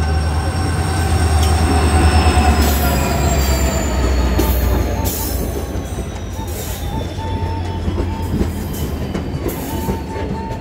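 Passenger train running past along the platform. A deep hum and slowly falling whines come as the locomotive passes, then the coaches roll by with steel wheels clicking over the rail joints and a little squeal.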